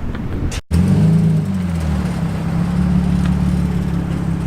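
Nissan 350Z's 3.5-litre V6 engine running steadily at low revs, starting abruptly after a cut about half a second in.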